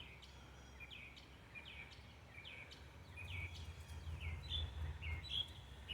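A bird calling in a steady series of short chirps, two or three a second, over a faint low rumble that swells in the middle and eases off.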